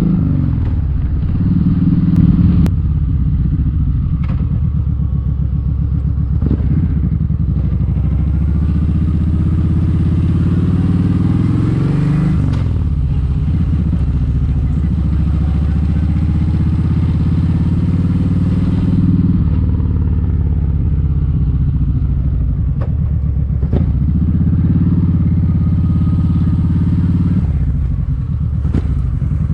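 Kawasaki Vulcan 1700 Vaquero's V-twin engine running on the move, its note climbing and then dropping back several times, about a dozen seconds in, near twenty, and again near the end.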